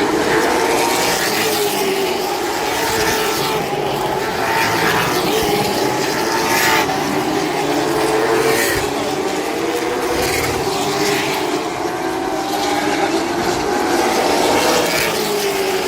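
Several race car engines running together at a steady, moderate pace, their pitch rising and falling gently, with a few brief louder swells as cars pass.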